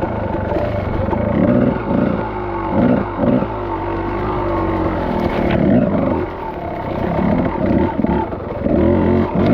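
Dirt bike engine revving up and down under changing throttle as it is ridden, with short blips and one longer rising pull near the middle.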